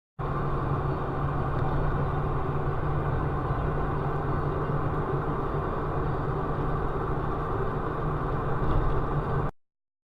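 Steady vehicle engine and road noise picked up by a dash cam, starting abruptly and cutting off sharply near the end.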